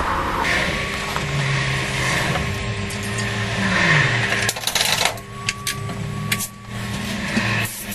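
Spray paint hissing from a can in bursts, with sharp metallic rattling clicks in the second half, over a steady background hum.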